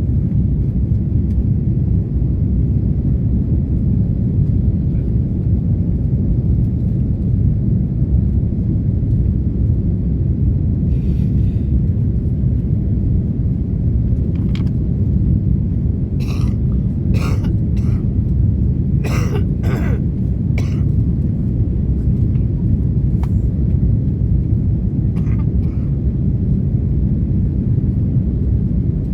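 Steady low rumble of an Airbus A330's engines and airflow heard inside the passenger cabin during the climb, with a few short sharp sounds, such as coughs, about halfway through.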